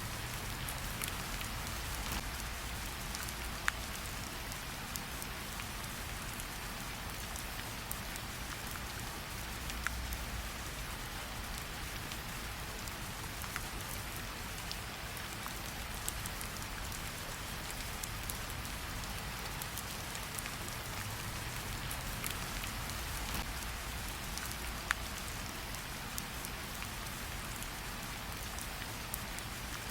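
Steady rain falling in an even hiss, with a few sharp crackles from a campfire a handful of times.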